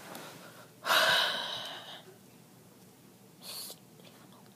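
A loud, breathy huff or wheezy gasp starting suddenly about a second in and fading over about a second, then a shorter, fainter breath a couple of seconds later.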